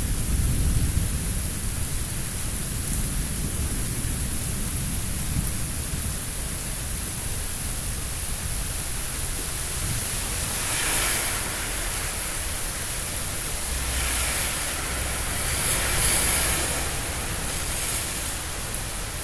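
Thunderstorm: steady rain hiss, with a low rumble of thunder in the first few seconds and several louder swells of hiss in the second half.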